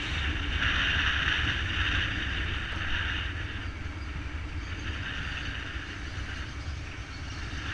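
Motorcycle on the move: a steady rush of wind and road noise over a low engine rumble, easing off a little after about three seconds.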